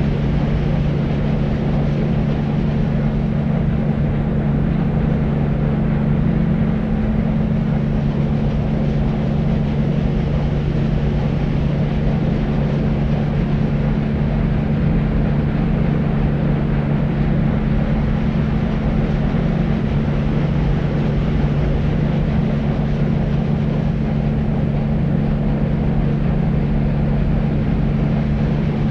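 Deep white noise for sleep: a steady, unchanging rushing noise, heavy in the low range with a low drone underneath and little hiss at the top.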